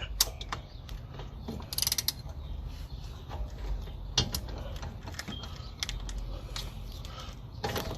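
Scattered metallic clicks and knocks of a hand wrench working on the wheel-hub bolts, with a short rattling patch about two seconds in.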